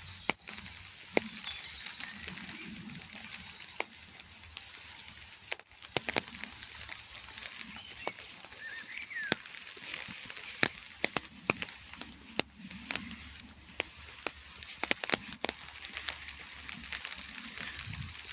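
Rain falling in a park: scattered drops ticking and tapping at irregular intervals over a steady hiss of rainfall. A faint bird chirp comes in about nine seconds in.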